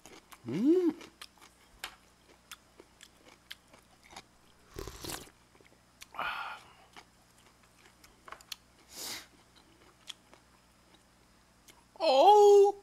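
A person chewing and eating close to the microphone: soft mouth clicks and chopstick taps, with a few short breathy bursts between them. A rising 'mm'-like hum comes about half a second in, and a loud voiced exclamation comes near the end.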